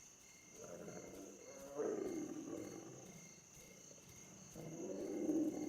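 Lions giving low, soft calls three times, about half a second in, about two seconds in and near the end. A steady chorus of crickets chirps behind them.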